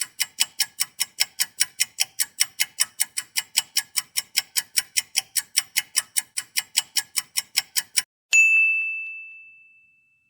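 Sound effect of rapid, evenly spaced metallic ticking, about five ticks a second for some eight seconds, then a single bright bell ding that rings out and fades.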